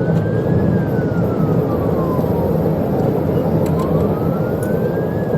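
Police siren on a slow wail, its pitch falling and then climbing again to a second peak near the end, over the heavy steady rumble of road, engine and wind noise from a car at high speed.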